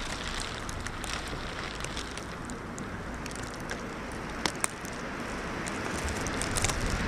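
Winter wind blowing across the microphone in a steady rush with a low rumble, building toward a gust near the end. A few sharp ticks stand out, two close together past the middle.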